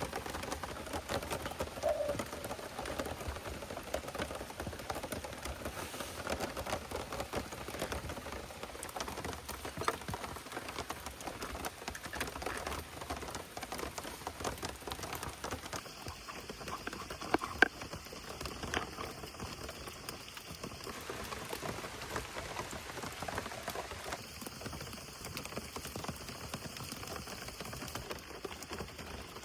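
Steady rain falling, a dense patter of drops, with one sharper tap about seventeen seconds in.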